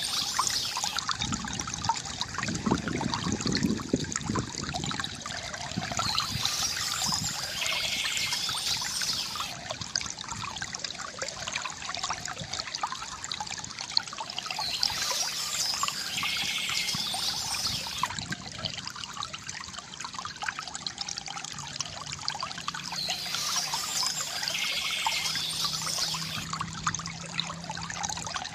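Stream water trickling and splashing steadily over stones. A brief high bird call comes back about every eight to nine seconds.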